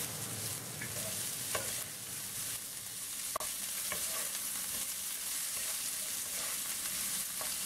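Diced carrots and green peas sizzling in hot oil in a wok, stirred with a wooden spatula that scrapes and now and then clicks against the pan.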